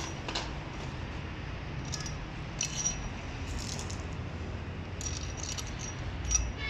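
Small metal tools or parts clinking and jingling in a scattered series of light taps, the loudest near the end, over a low steady hum.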